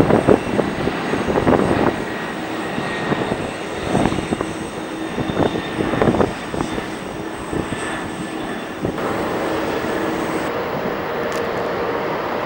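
Airliner engine noise as a plane passes: a continuous rushing sound with a faint steady whine. It is louder and uneven in the first couple of seconds, then settles to an even level.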